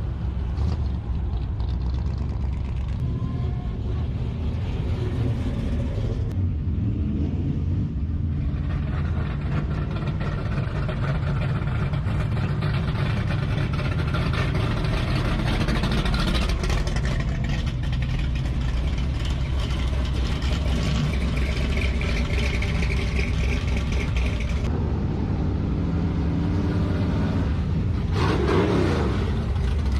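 Engines of classic cars and hot rods running as the cars drive past, a steady low rumble that changes every several seconds as different cars pass, with a rise in engine pitch near the end.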